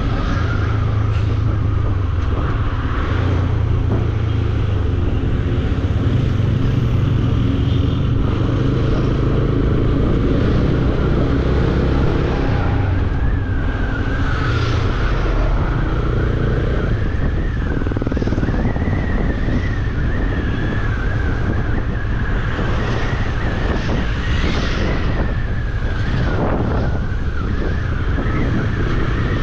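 Bajaj Dominar 400 single-cylinder motorcycle engine running steadily while riding, with a wavering whine that comes in about halfway through.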